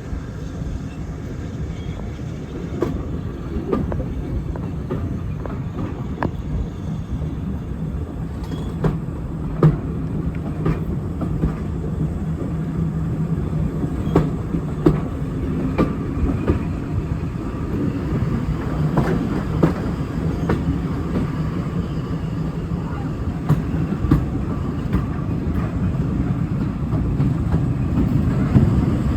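Heritage railway train running along the line: a steady low rumble with irregular sharp clicks, growing slightly louder toward the end.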